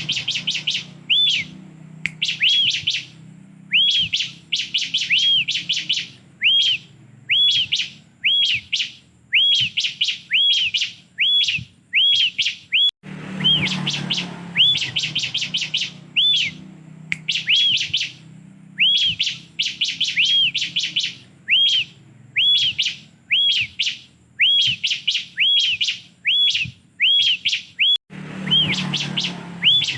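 Bar-winged prinia (ciblek) singing: quick phrases of short arching whistled notes mixed with fast, dry trills, repeated with brief pauses about once a second.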